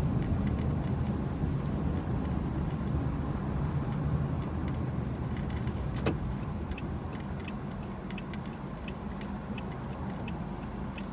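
Car interior road noise: a steady low rumble of engine and tyres that slowly eases off, with scattered light ticks and one sharper click about six seconds in.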